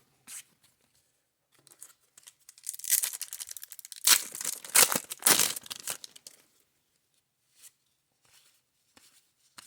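Crinkly rustling and tearing of a baseball card pack wrapper, in a run of bursts lasting about four seconds starting near the three-second mark, with a few faint clicks of cards being handled before and after.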